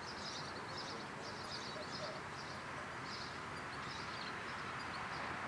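Small birds chirping in short repeated bursts over a steady background hiss.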